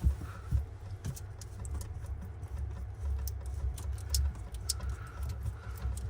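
Scattered light clicks and clinks of hand work on fittings, over a steady low rumble.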